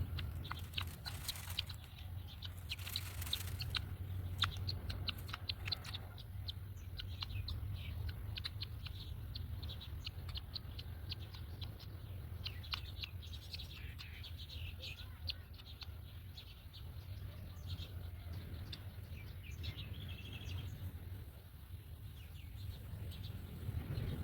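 Birds chirping: many short, high chirps in quick succession, busiest in the first half, over a steady low hum.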